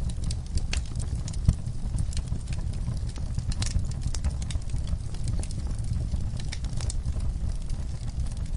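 Wood fire in a fire pit crackling, with frequent sharp, irregular pops from the burning logs and coals over a steady low rumble. The loudest pop comes about one and a half seconds in.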